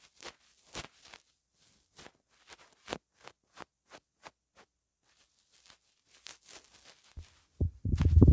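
ASMR sounds made right on a pin microphone: a scattered run of short, crisp clicks and rustles, then, from about seven and a half seconds in, a much louder low rumble of air or handling on the microphone itself.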